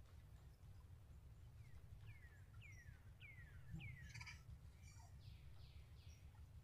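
A bird calling, faint: a run of five short falling whistles, about two a second, then three softer, broader falling notes, over a steady low rumble.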